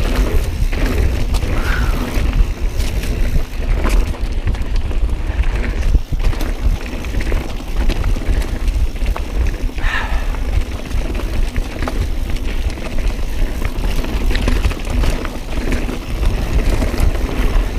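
Mountain bike being ridden fast over a rough, rocky trail: tyre noise and many quick rattling clicks from the bike, over a steady wind rumble on the microphone.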